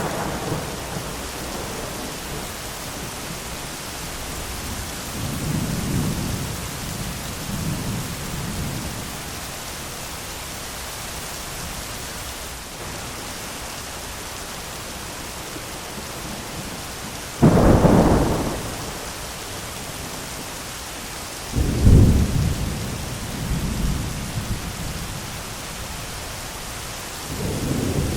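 Steady heavy rain with rolling thunder: soft low rumbles early on, then a loud sudden thunderclap about two-thirds of the way in, a second sharp clap a few seconds later that trails off into rumbling, and another rumble building near the end.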